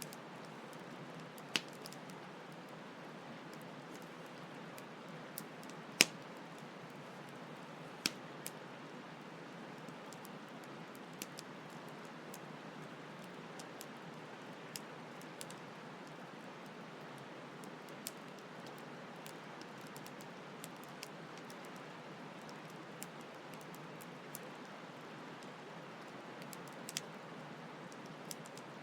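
Campfire crackling with irregular sharp pops, the loudest about six seconds in, over a steady rush of flowing stream water.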